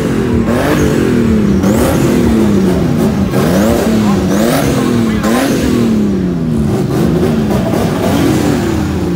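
Drift car engine revved over and over, each rev climbing quickly and dropping away more slowly, about once a second.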